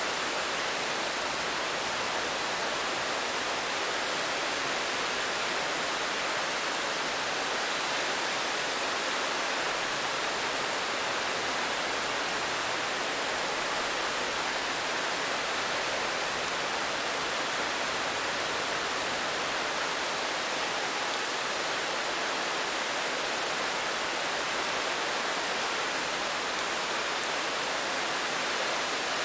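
Steady rain falling as an even hiss, with no single drops, thunder or change in loudness standing out.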